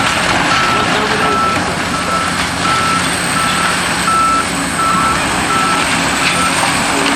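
Reversing alarm on a piece of heavy demolition equipment, beeping steadily at one pitch about three times every two seconds and stopping near the end. The machine's diesel engine and demolition noise run underneath.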